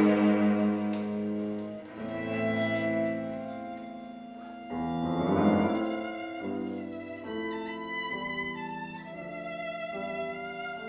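Live chamber music: violin and cello with piano playing a classical piece in sustained, changing notes, swelling louder for a moment about five seconds in.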